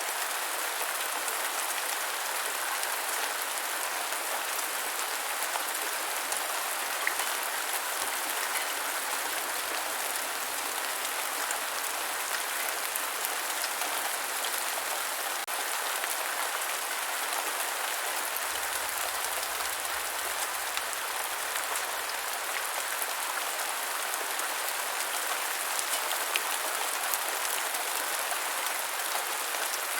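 Steady rain falling on the ground, an even hiss with scattered individual drop ticks.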